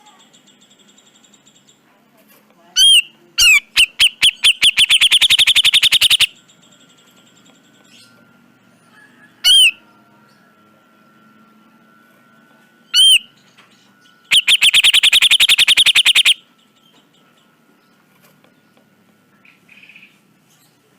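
Grey-cheeked bulbul (cucak jenggot) calling: a few single sharp arched notes and two fast, harsh rattling runs of notes about two seconds long, the first near the start and the second about two-thirds of the way through. A faint thin steady tone and quieter bird chirps lie underneath.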